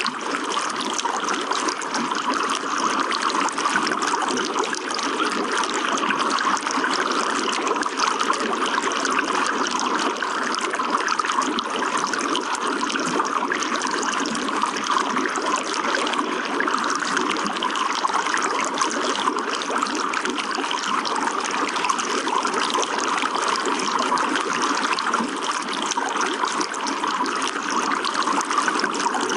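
Water trickling and splashing steadily, a continuous even rush with no breaks.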